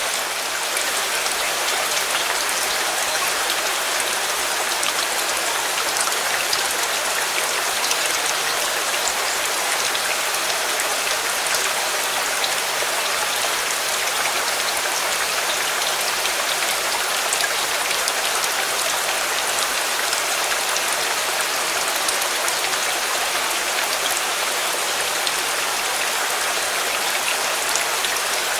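Steady rain falling, an even hiss of many drops with fine scattered ticks, unchanging throughout.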